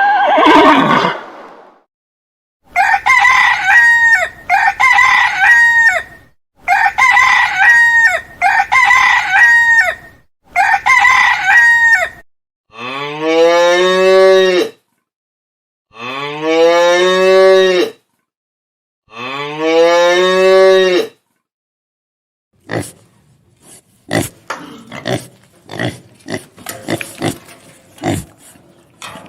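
A run of farm animal calls, one kind after another. First come five short calls in quick pairs, then three long calls, each rising in pitch and then held, and near the end a burst of quick, short grunts.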